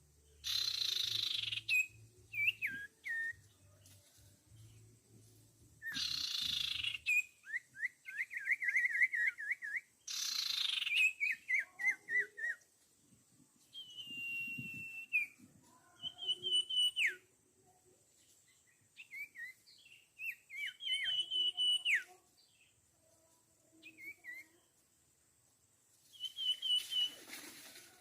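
Small songbirds calling: harsh, raspy chattering bursts, each followed by a fast trill of repeated notes, mixed with short clear whistles that drop off at the end.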